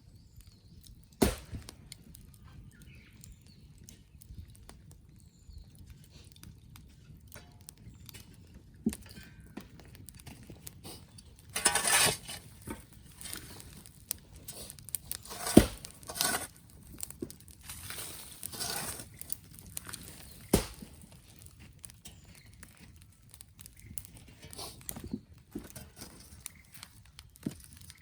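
Wood fire crackling, with a few sharp pops and short bursts of spitting crackle.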